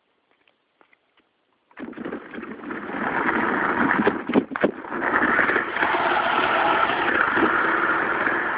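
G-scale model locomotive's electric motor starts up suddenly after a few faint wheel ticks and runs loud and rough, cutting in and out a few times before settling into a steady harsh drone: the sound of the motor having issues.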